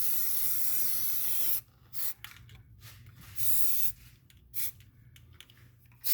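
Aerosol can of brown Rust-Oleum spray paint hissing in a long continuous spray that stops about a second and a half in. Then come a couple of short sprays, one of them about half a second long midway.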